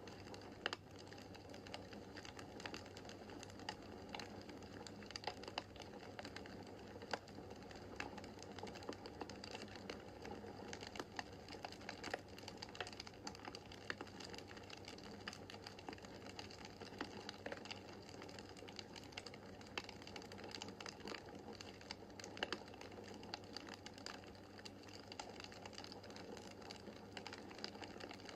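Wood fire in a fireplace crackling, with frequent irregular sharp pops and snaps over a soft steady rush of flame and a faint low hum.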